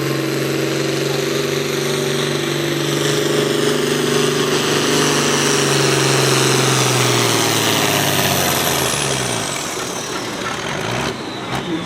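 Engine of a competition pulling vehicle running hard at steady high revs with a high whine over it. About eight and a half seconds in it lets off, and the engine note and the whine both fall away. A few sharp knocks come near the end.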